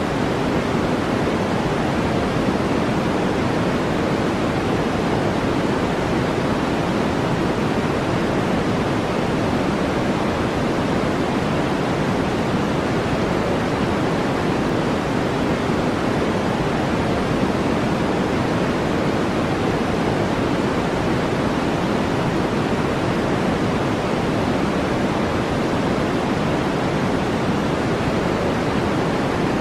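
Steady, unchanging synthetic noise with most of its weight in the low-middle range and much less hiss up high: a brown-noise track for sleep and relaxation.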